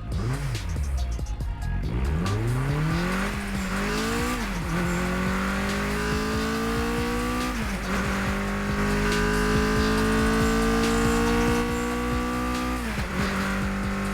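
Car engine accelerating hard through the gears: the engine note climbs steadily, then drops sharply at each of three upshifts before climbing again.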